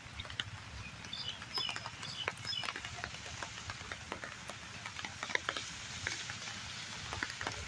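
Heavy rain falling steadily, with nearby drops ticking irregularly and a few faint high chirps about two seconds in.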